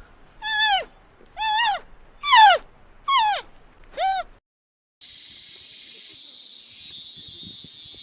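An animal calling five times, about one call a second, each a short pitched note that rises and then drops away. After a brief gap a steady high hiss sets in.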